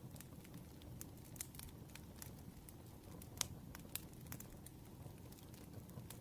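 Wood fire crackling: scattered sharp pops and snaps over a low, steady rumble, with one louder pop about three and a half seconds in.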